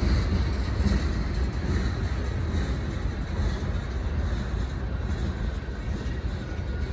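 Freight cars of a passing train rolling by close at hand: a steady rumble of wheels on the rails.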